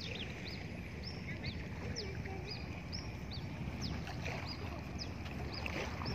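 Small birds chirping over and over, short high notes about two to three a second, over a steady low rumble.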